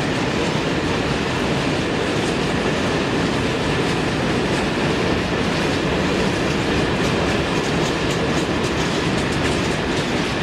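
A train passing close by: a steady, loud rumble of wheels on rail, with irregular clicks from the wheels running over rail joints.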